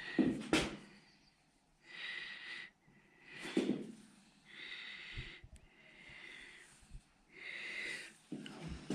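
Masking tape being pressed and rubbed down onto a painted panel with a thumb: a series of short hissy rubbing strokes, with a couple of sharper knocks in between.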